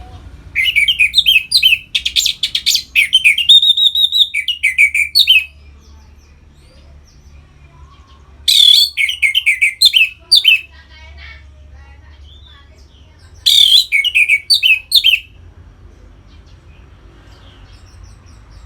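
Orange-headed thrush singing in full, loud 'ngeplong' song: three bouts of quick, repeated whistled phrases with pauses between, the first and longest lasting about five seconds. A faint low hum underlies it.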